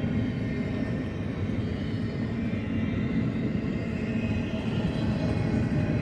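Long BNSF double-stack container freight train rolling past, a steady rumble of steel wheels on rail.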